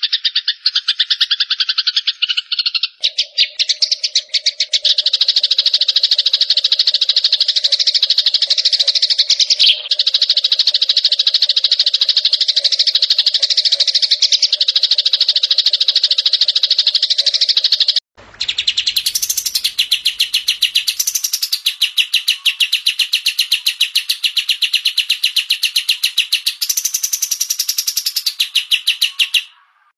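Recorded songbird calls for bird training: dense, very fast chattering. It changes to a different call about three seconds in, then breaks off briefly about eighteen seconds in and resumes higher-pitched.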